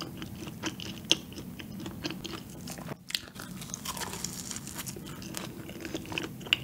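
Close-miked chewing of a soft, sugar-coated cream-filled donut, with many small wet mouth clicks and smacks. A fresh bite into the donut comes partway through.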